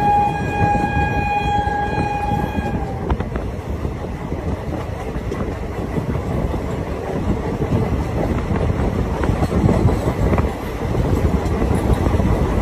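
A locomotive horn sounds one long, steady blast for about three seconds. Then comes the steady rumble and clatter of the passenger train running, heard from the open doorway of a moving coach.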